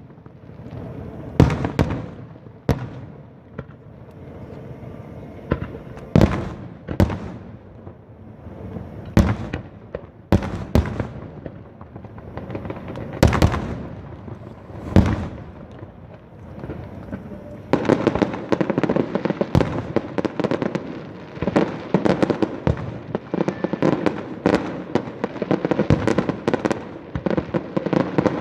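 Aerial fireworks display: single shell bursts, each a sharp bang, going off every second or so. About two-thirds of the way through, they give way to a dense barrage of many bursts in quick succession.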